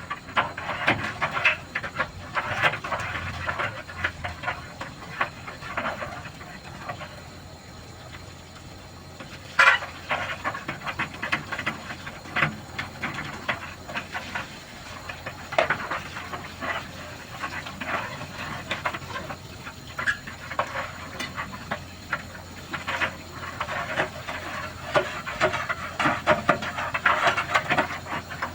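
Water spurting and sputtering in irregular bursts with a hiss as the central water heater is flushed, with a sharp spike about ten seconds in.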